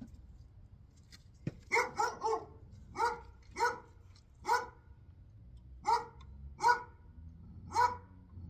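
A dog barking about nine times. It starts about two seconds in with a quick run of three barks, then barks singly roughly a second apart.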